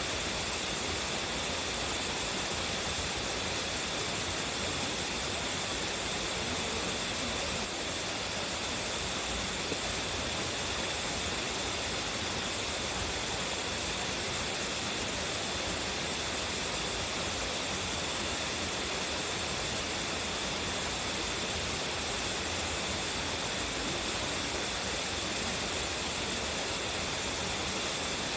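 A strong-flowing waterfall: water falling and rushing in a steady, even roar of noise, without pause.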